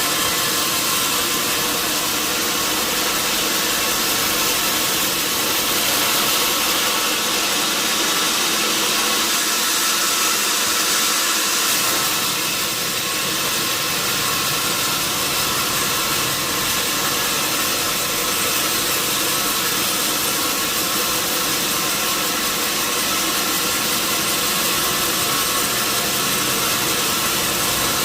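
Sawmill wheel-saw machinery running steadily: the drone of its motor under a constant hiss.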